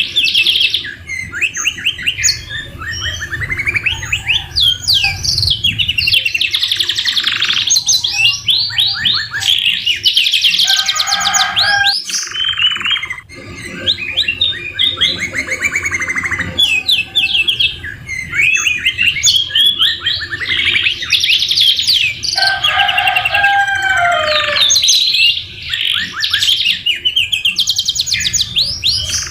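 Domestic canaries singing long, fast trills and rolls, with song phrases copied from the white-rumped shama (murai batu). The song pauses briefly about halfway through, then resumes.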